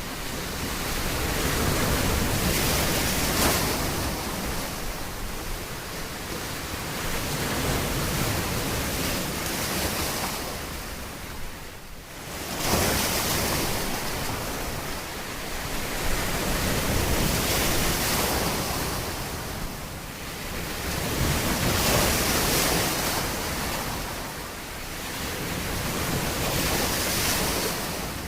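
Surf breaking and washing up on a beach, the rush of water swelling and fading every few seconds, with a sudden surge about twelve seconds in after a brief lull.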